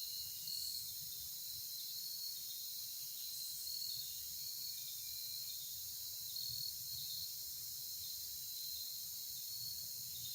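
Steady chorus of insects: a continuous high shrill with a slight pulsing, over a faint low rumble.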